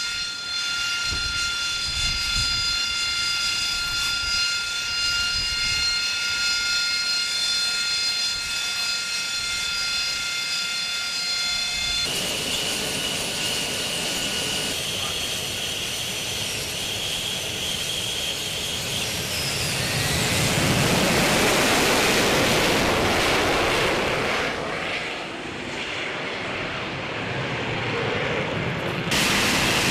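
AV-8B Harrier II jump jet's Rolls-Royce Pegasus turbofan running, first as a steady high whine with several fixed tones. After an abrupt change about 12 seconds in, the sound shifts, and from about 20 seconds in a broad jet roar builds and grows louder.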